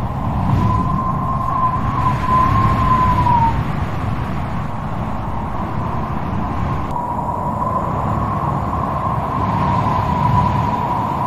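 Strong wind blowing with a low rumble and a whistling howl that wavers in pitch, fading out about three seconds in and returning about seven seconds in.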